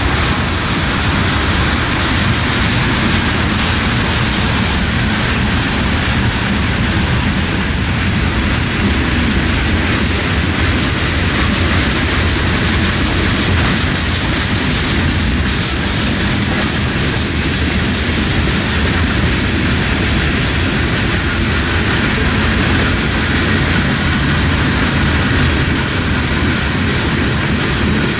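A freight train rolling past steadily, its wheels running on the rails at a constant level.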